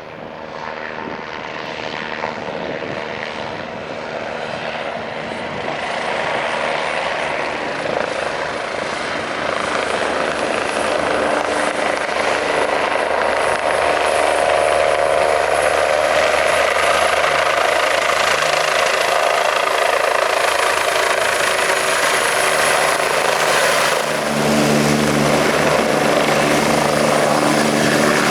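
Eurocopter EC145 twin-turbine helicopter approaching to land, its rotor and turbine noise growing steadily louder over the first half as it closes in, then holding loud with a steady turbine whine.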